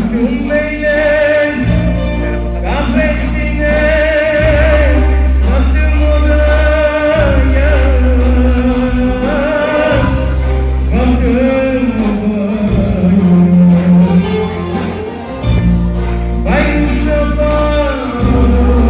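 Music: a man singing long, wavering held notes over a steady bass accompaniment.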